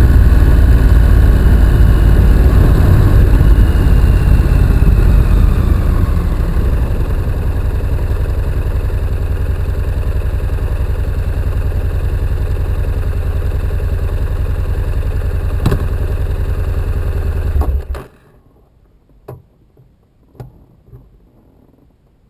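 Honda NC750X's parallel-twin engine running loudly, then settling to a quieter steady idle. A click comes a couple of seconds before the engine cuts off abruptly, leaving only a few faint clicks.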